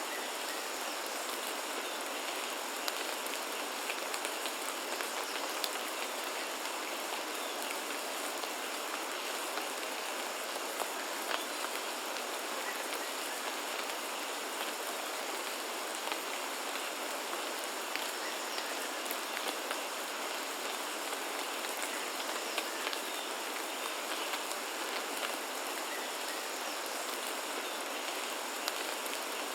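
Steady rainfall, with scattered ticks of individual drops over an even hiss.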